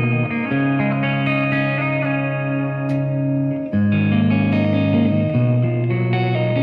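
Electric guitar, a Gibson Les Paul with humbuckers, played through a Monarch Third Eye overdrive pedal into a Marshall amp. A few sustained, ringing chords change about every one to three seconds.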